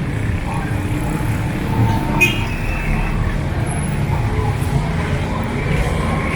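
Busy street ambience: a steady rumble of vehicle traffic with faint scattered voices, and a brief high-pitched beep about two seconds in.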